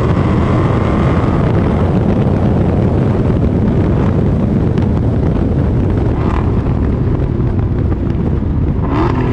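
The supercharged 6.2-litre V8 of a 2021 Dodge Charger SRT Hellcat Redeye with its mid mufflers deleted, running with a loud, steady, deep rumble. A faint high whine fades out about a second and a half in.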